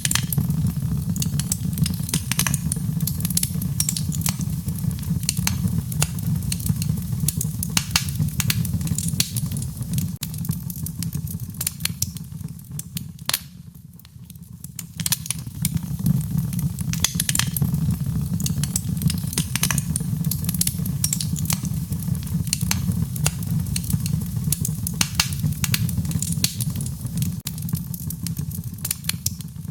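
Wood fire crackling, with frequent sharp pops and snaps over a steady low rumble of burning. It dies down briefly about halfway through, then picks up again.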